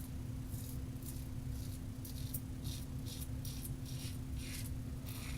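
Razor blade scraping through lathered stubble: a run of short, hissy strokes, about two a second.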